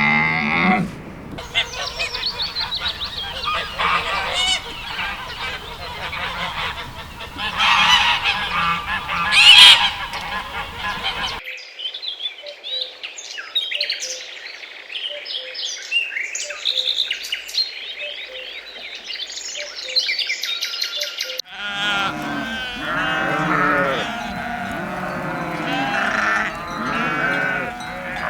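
Farmyard animal calls in three separate clips with abrupt cuts between them: loud calls for about eleven seconds, the loudest around nine seconds in, then about ten seconds of thinner, high-pitched calls, then many animals calling together near the end. The honking is typical of geese.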